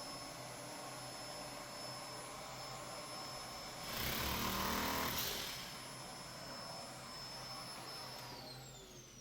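A small electric motor running with a steady high whine, swelling briefly in the middle, then switched off and winding down with a falling whine near the end.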